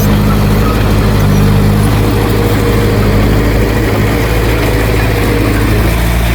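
Heavy diesel engine of earthmoving machinery running steadily, its pitch shifting slightly now and then.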